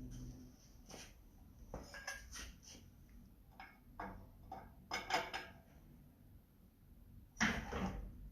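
Scattered metallic clinks and knocks of hard metal objects being handled, loudest about five seconds in and again near the end.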